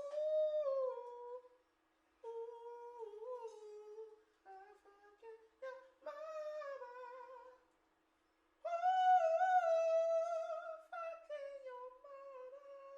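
A wordless hummed vocal melody in phrases of held, gliding notes, with two short gaps between phrases.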